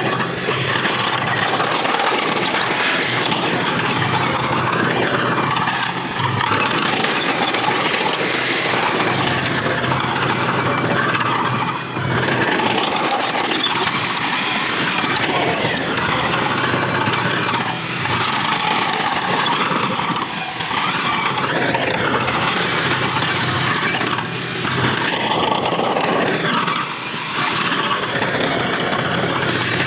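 Heavy earthmoving machinery, a bulldozer with dump trucks, with diesel engines running steadily and brief dips in level every few seconds.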